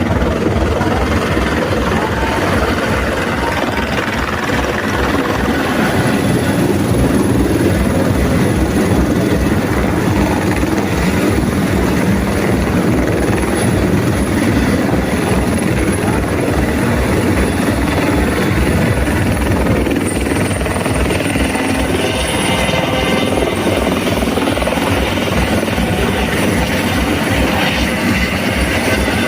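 Helicopter landing: its rotor beats with a steady, rapid low chop over continuous engine noise and a thin high whine.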